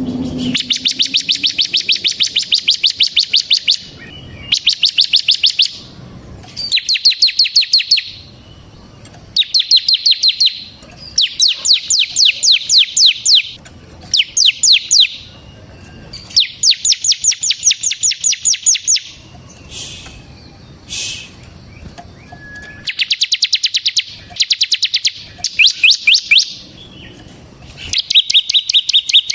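Bar-winged prinia (ciblek) singing a vigorous, drill-like song: rapid trains of sharp, high, evenly spaced notes in bursts of one to three seconds, with short pauses between them.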